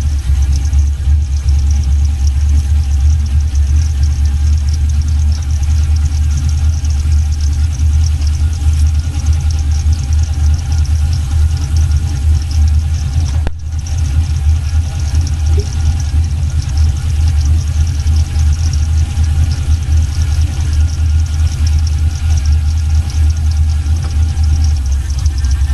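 A 6.0-litre V8 in a 1979 Regal idling steadily, with a momentary break about halfway through.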